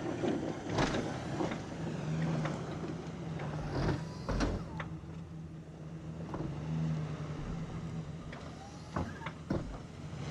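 Massey Ferguson 1725 sub-compact tractor's engine running steadily while working heavy snow, its hum swelling and easing a few times, with several sharp knocks and clunks along the way.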